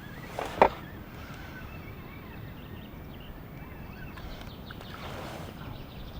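Steady outdoor background noise with faint bird chirps and one sharp click or knock a little over half a second in.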